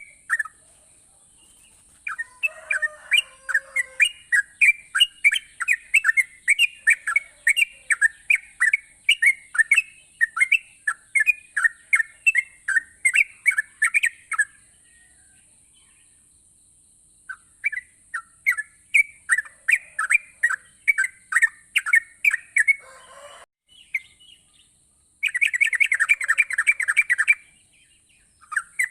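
Yellow-vented bulbul (trucukan) singing: quick runs of bubbly falling chirps, about three to four a second, in two long bursts with a pause between. A fast dense trill comes near the end. A steady high hiss runs underneath.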